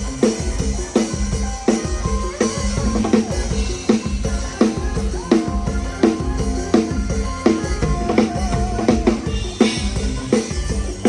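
PDP drum kit played live in a steady beat, kick drum and snare driving the rhythm under the band's other instruments, heard up close through a phone's microphone.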